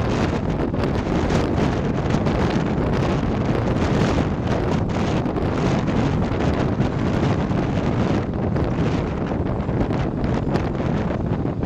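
Steady wind rushing over the microphone, a constant loud rumble and hiss with no let-up.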